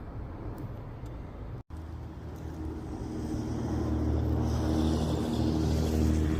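A motor vehicle's engine running steadily, growing louder from about three seconds in as it comes closer, after a brief break in the sound at a cut.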